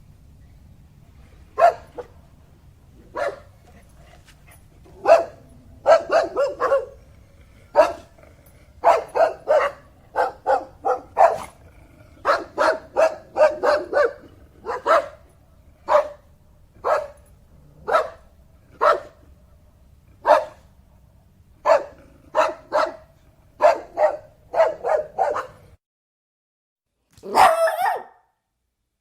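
A dog barking over and over, single barks and quick runs of two to four, with short pauses between. Near the end, after a brief gap, come one or two louder, harsher barks.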